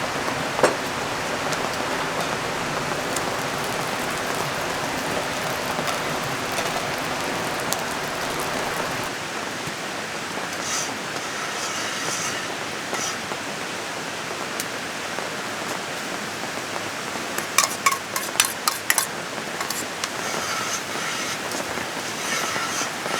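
Steady rain and the rush of a nearby river, an even hiss that thins a little partway through. Several sharp clicks or knocks come in a cluster about three-quarters of the way in.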